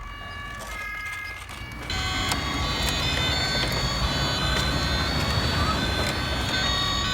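Electronic two-tone siren of a toy fire truck, alternating between two pitches. About two seconds in, a louder, steady, noisy sound with several held tones comes in over it.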